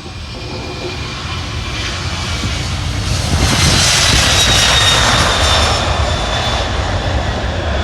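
Airbus CC150 Polaris, a military A310 twin-engine jet airliner, on its takeoff roll with its turbofans at takeoff power. The engine noise grows louder, peaks with a high turbine whine a few seconds in, then eases off slightly.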